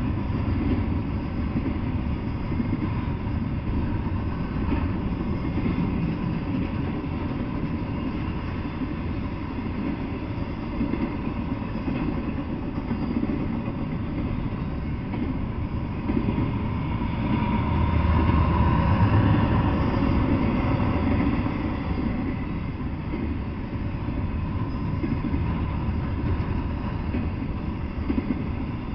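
Double-stack intermodal freight train's container well cars rolling past with a steady rumble of steel wheels on rail. It grows louder for a few seconds just past the middle.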